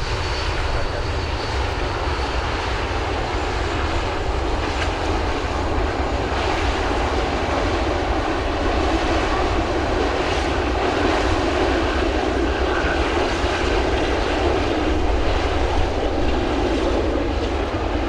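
Airliner engines running on a nearby runway: a steady, loud rumble that grows a little louder in the second half.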